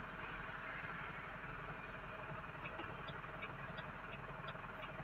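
Car engine idling, heard from inside the cabin. About halfway through, a quick, even ticking starts, the car's turn signal.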